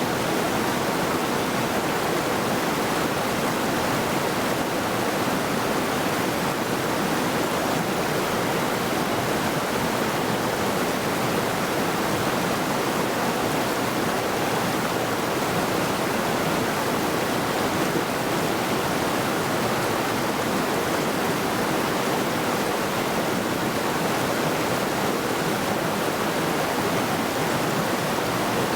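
A mountain river rushing steadily over rocks, a constant even roar of flowing water.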